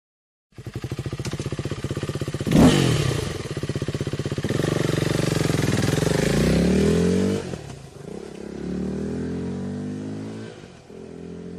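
KTM 390's single-cylinder engine, breathing through a K&N high-performance air filter, idling and being revved: a sharp throttle blip, a held rev that cuts off, and a second rev that rises and falls before dropping back to idle.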